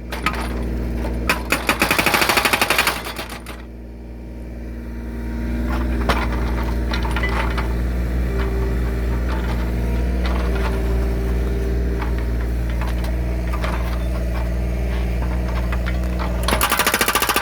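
Hydraulic breaker on a Kubota U35S mini excavator hammering rapidly into logs to split them for firewood, in two bursts: one shortly after the start and one near the end. The excavator's diesel engine runs steadily between them, with scattered knocks.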